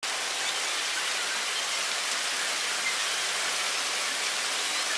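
Rain falling steadily on hard paving: an even hiss of many drops.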